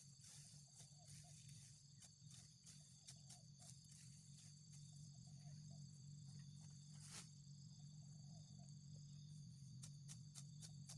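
Faint, irregular snicks of a hand sickle cutting through grass stems, one sharper stroke about seven seconds in, over steady insect chirring and a low hum.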